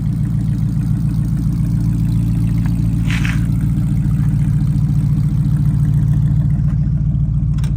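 Freshly rebuilt 350 cubic-inch V8 of a 1969 Pontiac Firebird idling steadily through its dual exhaust.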